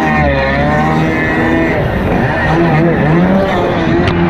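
Stand-up jet ski's two-stroke engine revving, its pitch falling and rising as the throttle is worked, with a second steadier engine note beneath.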